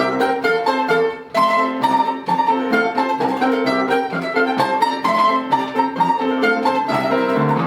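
Instrumental music from a plucked-string ensemble, with mandolin-like picked notes changing quickly over a steady lower accompaniment: the closing bars of a polka.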